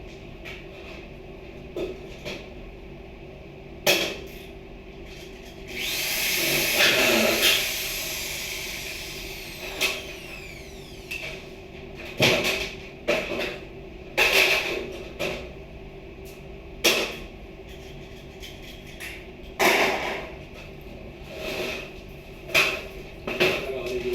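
Sharp knocks and clatter at irregular intervals, as hard objects are handled and set down. About six seconds in comes a longer scraping or rushing sound lasting about two seconds.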